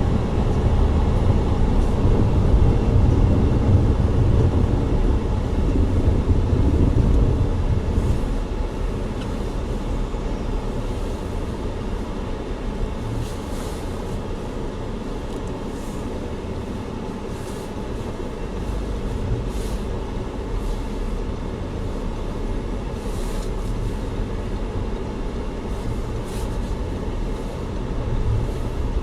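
Steady driving noise of a vehicle, a low rumble of engine and road that is strongest in the first several seconds, with no sharp impacts.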